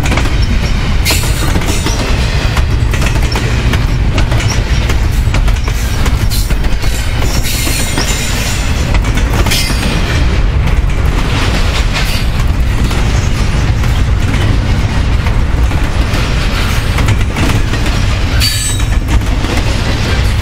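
Double-stack intermodal well cars rolling past at track speed: a loud, steady low rumble of steel wheels on rail, broken by scattered sharp clicks and clanks.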